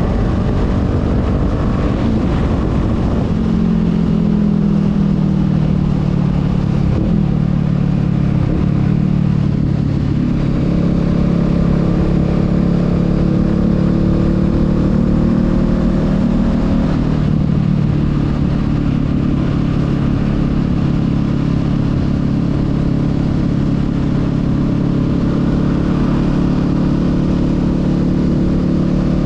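Honda Rebel 500's parallel-twin engine running under way on the road, its pitch falling over the first few seconds and then holding mostly steady, with wind rumbling on the microphone beneath it.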